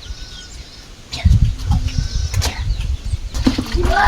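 Chickens clucking, with loud low thumps and rustling starting about a second in.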